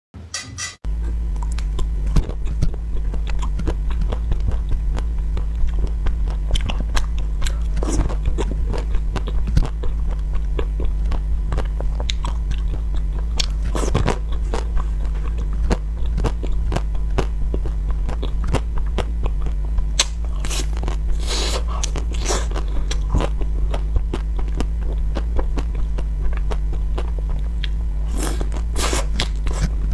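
Close-miked biting and chewing of homemade chocolate-covered treats: the chocolate shell crackles and crunches, with a run of small wet clicks between bites. A steady low hum lies underneath.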